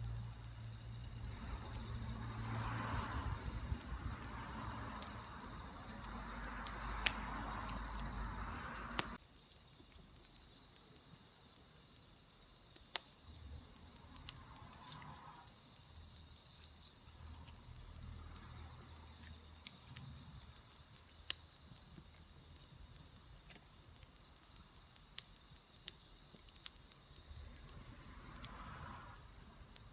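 Autumn crickets chirring in one steady, high-pitched drone, with scattered sharp clicks. A low rumble underneath cuts off abruptly about nine seconds in.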